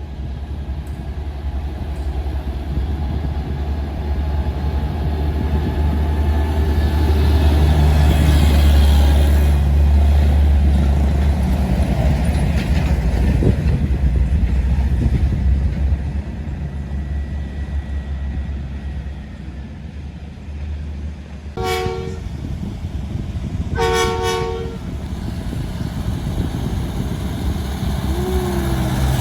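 Truck engine with an open, unmuffled exhaust running hard, a deep rumble that builds to its loudest about eight to ten seconds in and then eases off. Near the end a horn sounds twice in short blasts.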